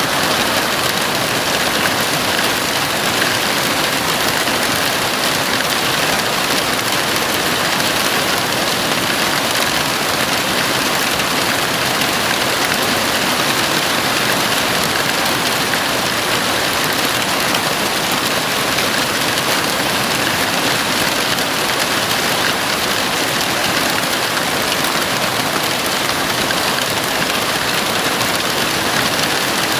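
Heavy rain falling on a house roof, a steady, dense hiss of drops with no change in strength.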